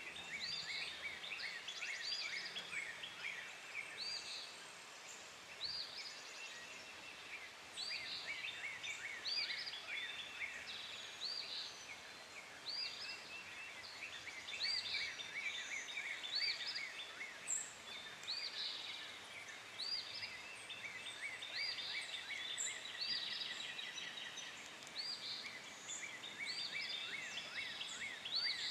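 Several birds calling and singing, with many short high chirps repeating and overlapping throughout.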